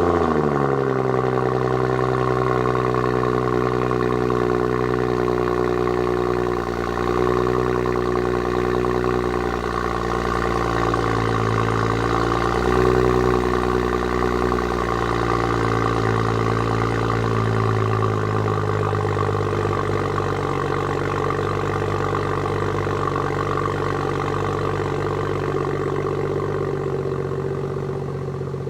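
BMW 340i's 3.0-litre turbocharged inline-six running at a raised cold-start idle through its exhaust with a high-flow mid-pipe and the exhaust valve open. It settles from the start-up flare into a steady drone, the pitch easing down slightly with a couple of small wavers.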